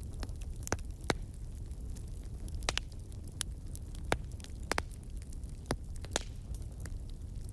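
Wood campfire crackling: irregular sharp pops and snaps, about one or two a second, over a steady low rumble of the flames.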